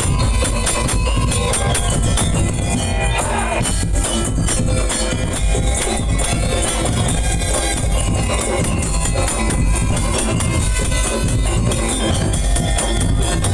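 Madurese daul music: a percussion-led band playing loudly and continuously, with a heavy low beat and dense percussion.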